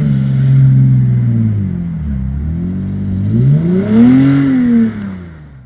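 Dodge Challenger V6 with an aftermarket exhaust revving: the engine note holds, drops off about two seconds in, then climbs to a single rev near four seconds and falls back before fading out and cutting off at the end.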